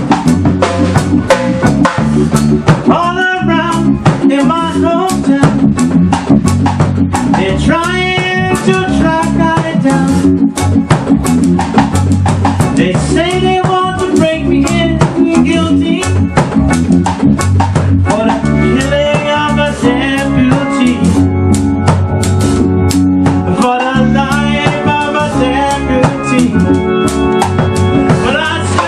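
A band playing a song: drum kit keeping a steady beat with rimshots, a bass line and guitar, and a lead voice singing phrases every few seconds.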